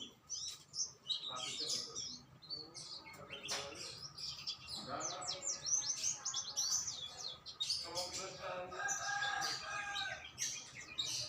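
Many small songbirds chirping and twittering in quick runs of high notes, with domestic fowl calling in longer, lower held notes twice.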